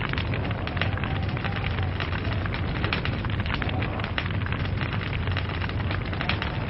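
Log fire burning with dense, irregular crackling: many small pops of burning wood over a steady low rumble of flame.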